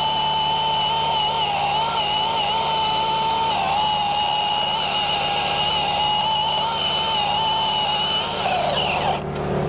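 Milwaukee battery top-handle chainsaw making a bottom cut: a steady high electric-motor whine that wavers a little as the chain loads in the wood, then winds down and stops about nine seconds in. A low steady hum runs underneath.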